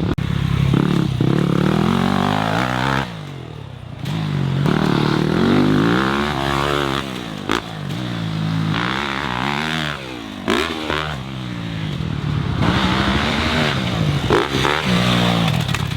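Dirt bike engine revving up and easing off over and over, its pitch rising and falling, and dropping off for about a second around three seconds in.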